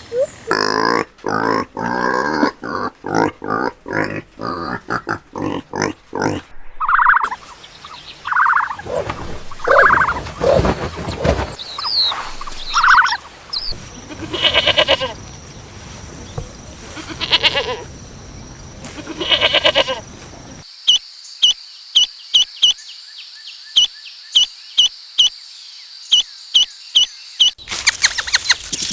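Farm animal calls in a string of short clips that change abruptly every few seconds, ending in a steady run of short, high chirps or clicks.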